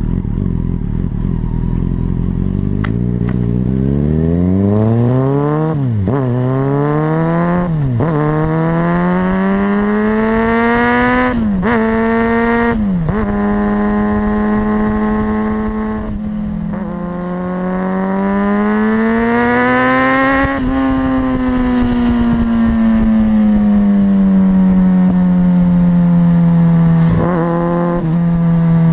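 Kawasaki Ninja ZX-6R's inline-four engine through a Leo Vince exhaust with the dB-killer baffle removed, pulling away and accelerating through the gears. The pitch climbs and drops sharply at four upshifts in quick succession. It then holds steady, rises once more and slowly falls away as the bike rolls off the throttle.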